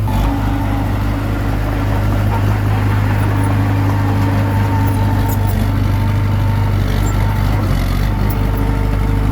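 Komatsu D21P bulldozer's diesel engine running steadily.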